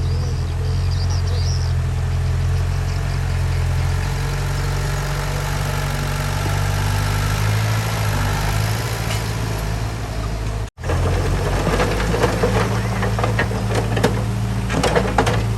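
Heavy-equipment diesel engine running steadily. After a sudden break about eleven seconds in, it runs on with a quick series of knocks over it.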